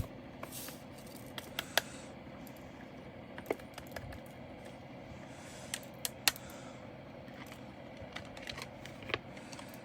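Light, irregular clicks and taps of small hard plastic pieces: loose resin diamond-painting drills and their containers being handled during sorting.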